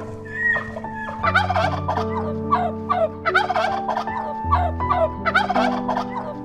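Turkey gobbling: several quick runs of short warbling notes, over background music with held chords.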